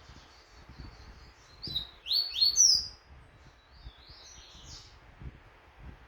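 Double-collared seedeater (coleiro) singing a phrase of high, quick notes, loudest about two seconds in with a few sharply rising notes.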